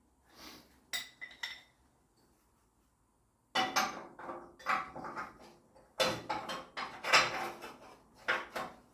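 Metal-on-metal clinks and clanks of hand tools and steel parts being handled against a steel Jeep frame: a few sharp clinks, a short pause, then a longer run of irregular clattering from about three and a half seconds in.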